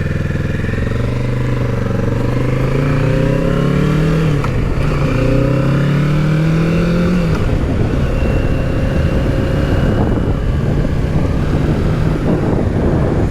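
Kawasaki Z650's parallel-twin engine pulling under way: its pitch climbs slowly for about seven seconds, drops as the throttle eases, then holds steady.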